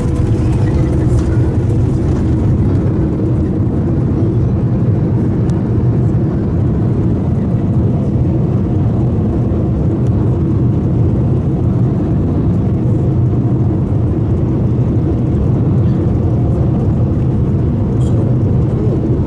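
Steady rumbling roar of a Boeing 787 airliner heard from inside the passenger cabin during landing, engines and airframe noise holding even with no sudden change.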